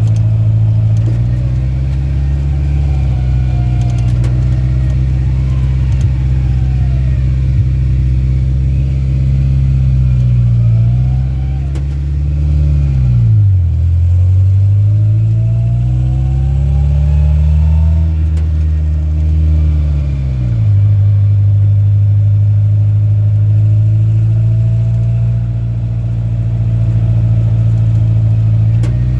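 Rat rod truck's engine running under way on the road. Its pitch holds steady, falls away as the truck slows about halfway through, climbs again as it accelerates, then drops back to a steady lower note a few seconds later.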